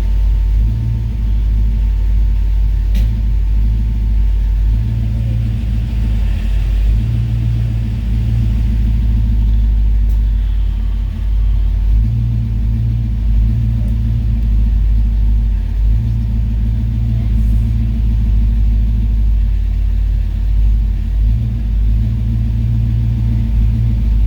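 Steady low rumble of a car's engine running, heard from inside the car.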